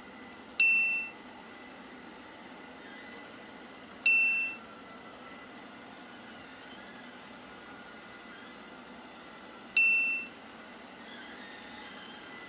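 Three identical bright bell-like dings, each ringing out for about half a second: one at the start, one about three and a half seconds later, and one nearer the end. A faint steady hum runs underneath.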